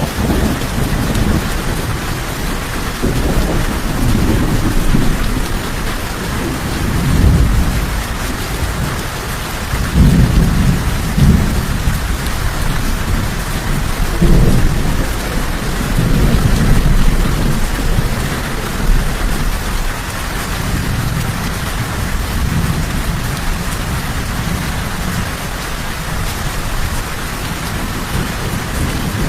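Steady heavy rain with rolling thunder. Low rumbles swell and fade several times over the steady hiss of the rain, strongest in the middle.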